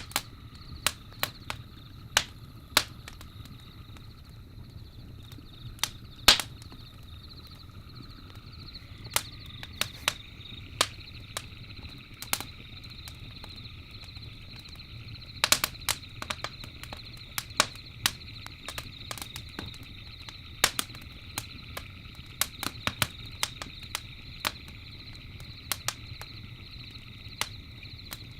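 Campfire crackling, with irregular sharp pops, the loudest about six seconds in and a quick cluster in the middle, over a low steady rumble of the burning fire. Behind it runs a steady high chorus of night insects.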